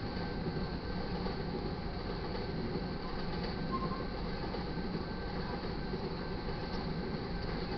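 Crude oil train's tank cars rolling past, a steady rumble of steel wheels on rail.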